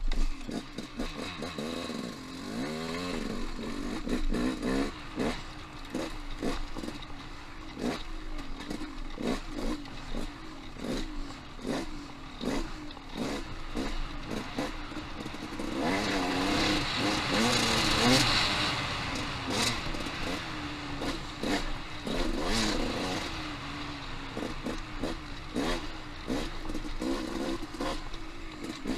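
Dirt bike engine revving up and down as it is ridden over rough singletrack, with a steady clatter of knocks from rocks and the bike's chassis. It is loudest in a hard pull of several seconds a little past the middle.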